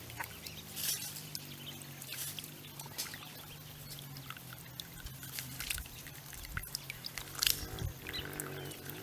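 Small birds bathing in a water fountain: short, irregular splashes and wing flutters, the loudest about seven and a half seconds in, over soft background music.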